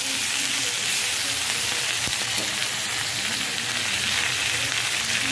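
Chopped onion, French beans, capsicum and tomato frying in oil in a kadhai, a steady sizzle, with a perforated steel spatula stirring through the vegetables at the start and giving a few faint ticks.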